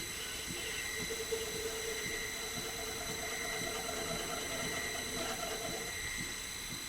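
Small metal lathe running, its motor giving a steady high whine, with a wavering cutting tone from about half a second in that fades out near the end as the tool works the workpiece.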